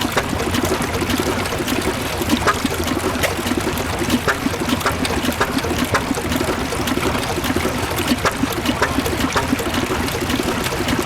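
Richard Hornsby stationary petrol engine running steadily, a quick, uneven run of beats and sharp clicks.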